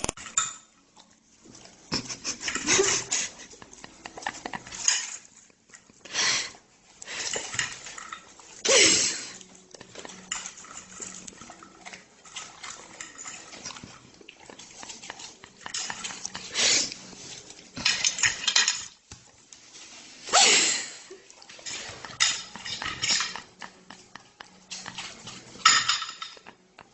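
A dog eating from a bowl, the bowl clattering and scraping at irregular moments.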